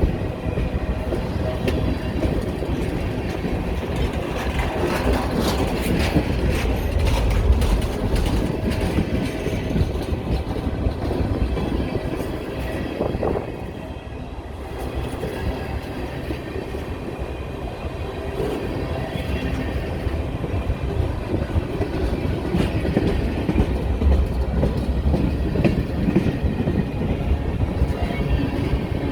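Pan Am Southern freight train rolling past, its wheels clicking over rail joints over a steady low rumble, with a brief lull about halfway through.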